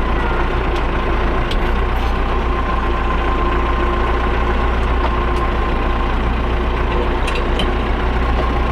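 Tractor engine running at a steady speed, with a few light clicks and rattles.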